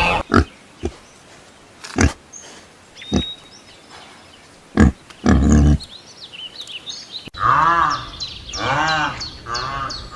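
Pig grunting and snorting, a few short grunts spread over several seconds. After an abrupt cut, another animal gives a run of repeated rising-and-falling calls.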